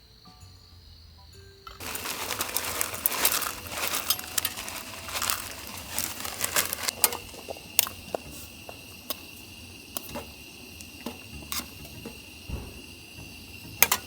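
Firewood crackling and popping in a campfire. The crackle starts suddenly about two seconds in and is dense at first, then thins to scattered sharp pops after about seven seconds.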